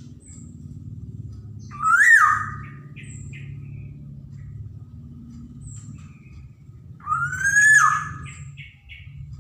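Black-naped oriole giving two loud calls about five seconds apart, each sliding up in pitch and then dropping, with faint short chirps between them. A low steady rumble runs underneath.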